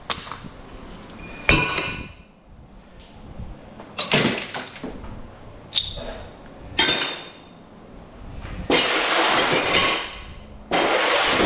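Scrap metal clanking and clinking: sharp knocks about a second and a half, four, six and seven seconds in, then two longer rattling stretches near the end.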